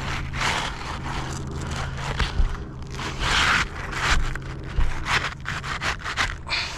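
Asphalt roof shingle being slid back in underneath the shingle above, scraping and rustling against the roof in a series of irregular strokes.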